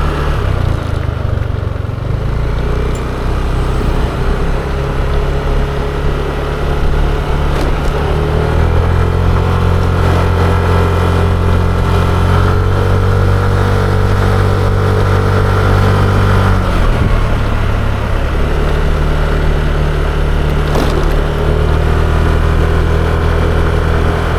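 Yamaha Aerox 155 scooter engine running under way, holding a steady note that grows stronger about a third of the way in, drops off briefly past the middle, then picks up again.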